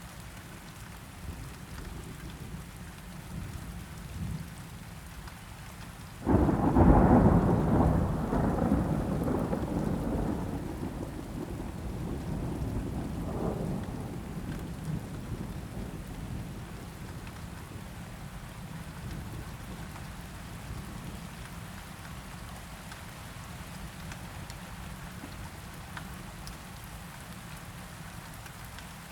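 Steady rainfall with a sudden thunderclap about six seconds in that rumbles and fades away over several seconds, followed by a second, weaker rumble a few seconds later.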